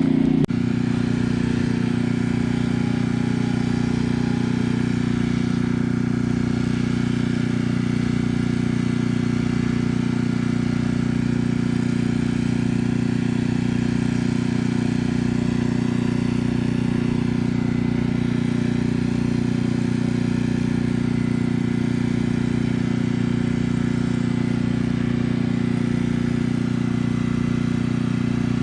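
An engine running steadily at constant speed, a low, even drone that does not change.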